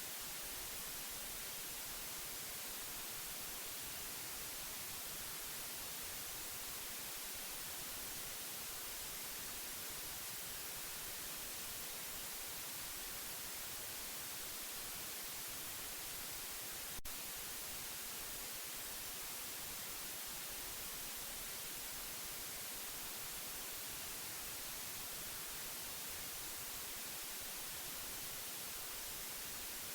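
Steady white noise: an even, unbroken hiss, strongest in the highs, with a single brief click about seventeen seconds in.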